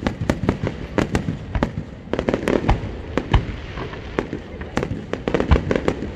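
Aerial fireworks bursting in rapid succession: a dense string of sharp bangs, several a second, with crackling between them.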